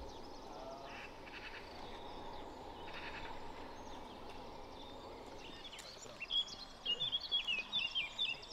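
Outdoor ambience with a steady faint hiss, and a small songbird chirping in quick, rapid notes through the second half.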